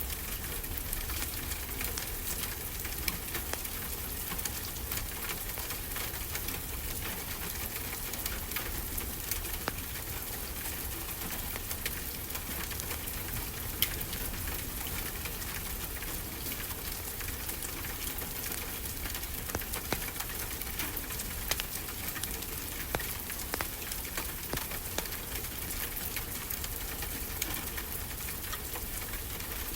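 Wood fire crackling, with scattered sharp pops, over a steady wash of ocean surf.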